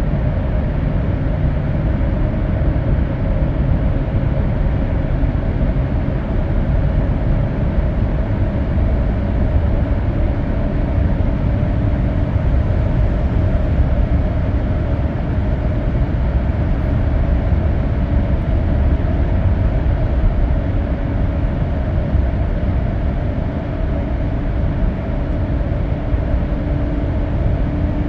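Steady road noise of a car driving at expressway speed, heard inside the cabin: a deep, even tyre and engine rumble with a faint steady hum above it.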